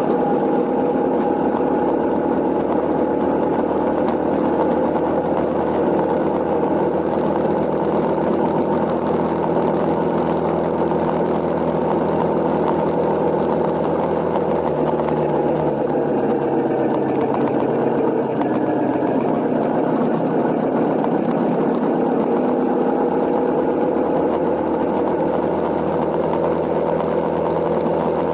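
Honda CRF250L's single-cylinder four-stroke engine running steadily, its pitch shifting slightly about halfway through.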